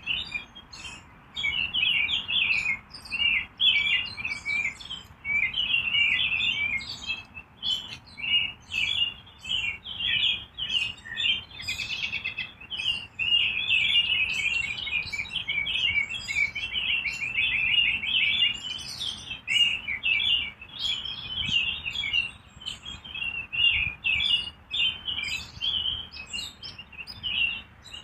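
A crowd of birds chirping continuously, many short overlapping chirps with no break.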